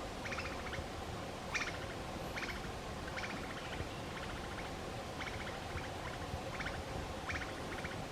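Forest ambience: short buzzy calls made of rapid pulses, repeating every second or so over a faint steady hum.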